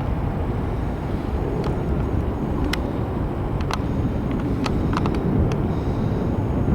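Steady low rumble of jet engine noise across the airfield, with faint sharp ticks about once a second.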